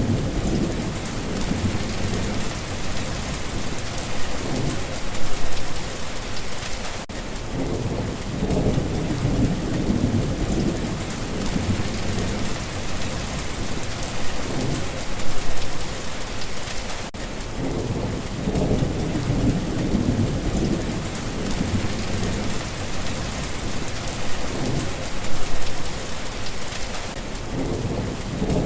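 Steady rain falling, with low thunder rumbling and swelling at intervals; the loudest swells come roughly every ten seconds.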